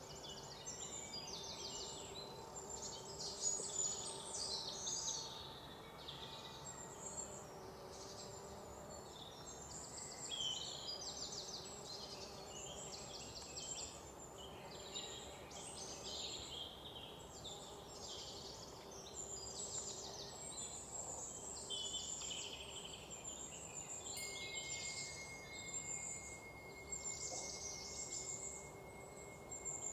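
A chorus of several songbirds chirping and trilling in a forest, their calls overlapping without a break. Near the end a thin, steady high tone joins in.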